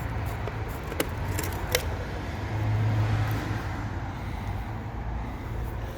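Low rumble of a passing vehicle that swells about halfway through, with two sharp clicks about a second in and just under two seconds in.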